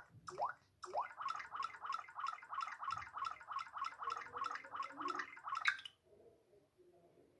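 Samsung Nature UX lock screen's water-ripple sound effect: synthetic water-drop blips, each a quick rising bloop. Two single drops in the first second, then a fast even run of about five drops a second that stops abruptly about six seconds in.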